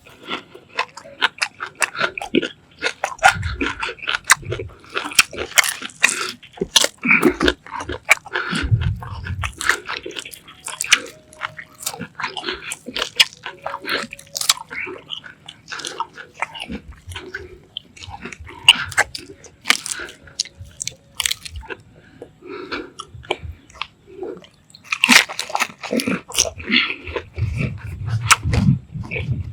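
Close-up mukbang eating sounds: someone biting and chewing crunchy food, with many sharp crackling crunches in quick succession and a few deeper thumps.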